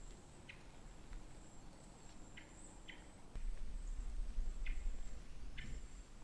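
Woodland ambience: faint, short bird chip notes spaced a second or two apart, over a low rumble that grows louder a little past halfway through.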